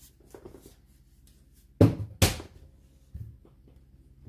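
Two sharp knocks about half a second apart, then a softer one, from hard parts of a fridge freezer being handled and taken off.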